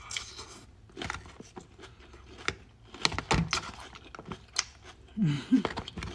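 Eating a salad close to the microphone: crunchy chewing with fork clicks and scrapes, and a couple of short low hummed sounds near the end.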